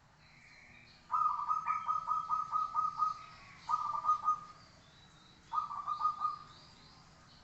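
Zebra dove (perkutut) cooing: a run of about ten quick, evenly spaced notes starting about a second in, then two shorter runs of a few notes each. Faint high chirps from other small birds sound in the background.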